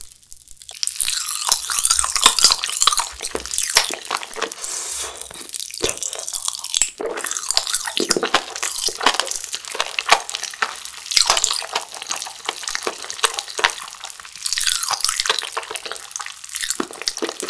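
Crunching and wet chewing of tanghulu, the hard sugar glaze on the fruit cracking in many sharp snaps as it is bitten and chewed.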